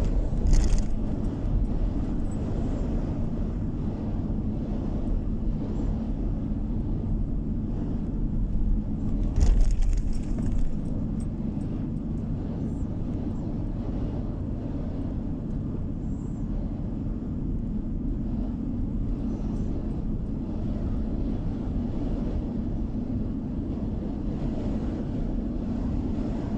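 Steady road and engine noise of a moving car, heard from inside the cabin, a low rumble throughout. Two brief louder jolts, about half a second in and again near ten seconds, as the tyres go over bumps or joints in the road.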